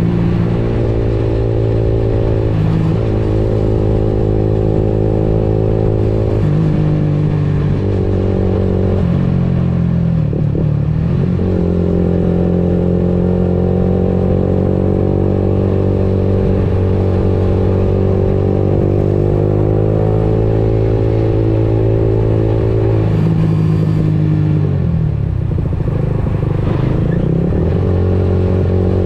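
Motorcycle engine running while riding, its pitch rising and falling several times with throttle and gear changes.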